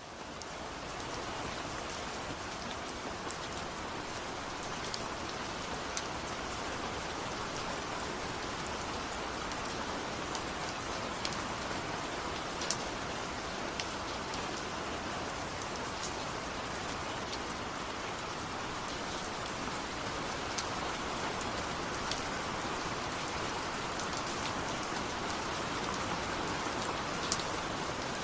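Steady rain, fading in over the first second, with scattered single drops ticking sharply on a surface.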